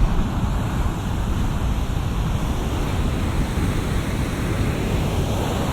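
Heavy shore-break surf at the Wedge, a steady rush of breaking and washing waves with a deep low rumble, recorded binaurally from the beach.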